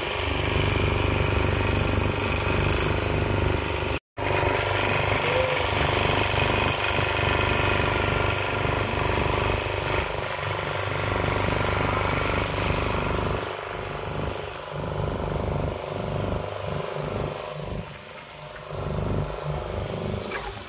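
Boat engine running steadily with an even drone, briefly cut off about four seconds in and quieter and more uneven in the second half.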